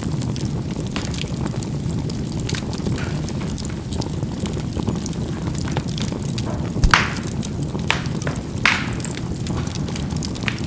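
Charcoal burning in a fireplace: a steady low rumble of the fire with scattered sharp pops and crackles as the charcoal bursts, two of them louder about seven and nine seconds in.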